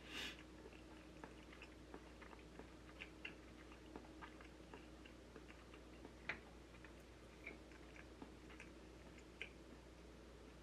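Faint chewing with scattered small clicks from the mouth of a person eating, a couple of them louder.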